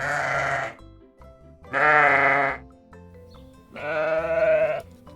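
A sheep bleating three times, each bleat a wavering "baa" about a second long, over light background music.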